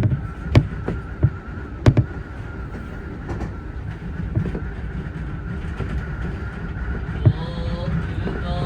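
Keio Inokashira Line electric train running on the rails: a steady low rumble with sharp wheel clicks over rail joints in the first two seconds. Near the end an electric motor whine climbs in pitch in steps.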